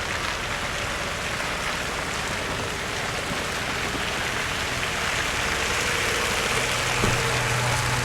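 Steady hiss of traffic on wet, slushy streets, with a vehicle's engine hum coming in and growing a little louder in the last second or two.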